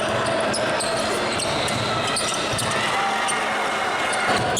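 Basketball game sound in a gym: a ball bouncing on the hardwood court against a background of crowd and player voices, with the echo of a large hall.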